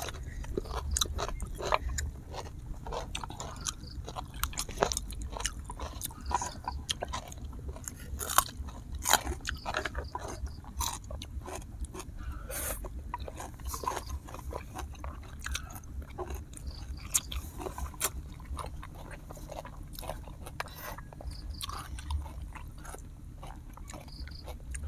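Close-miked eating: a person chewing and biting mouthfuls of instant noodles and grilled duck, with many irregular wet mouth clicks and smacks.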